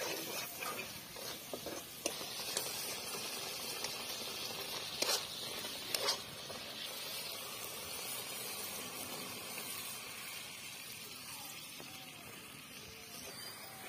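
Spiced tomato masala sizzling in a black iron kadai over a wood fire, with a metal spatula scraping and knocking against the pan a few times, loudest about five and six seconds in. The sizzle slowly dies down.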